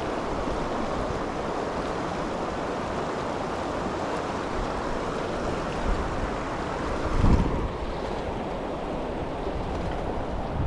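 Steady rush of a small mountain creek's flowing water, with wind buffeting the microphone in a brief low gust about seven seconds in.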